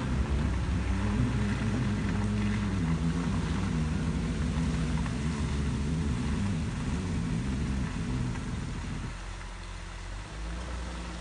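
A car's engine running as the vehicle drives slowly along a dirt road, heard from inside the cabin; the engine note shifts a little in pitch. It eases off about nine seconds in and picks up again near the end.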